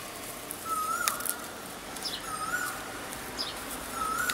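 Birds calling: one repeats a short rising whistle three times, about every second and a half, with higher chirps from other birds in between.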